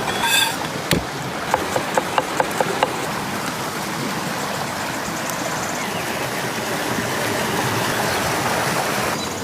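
A steady rushing noise, with a quick run of about seven light ticks between about one and a half and three seconds in.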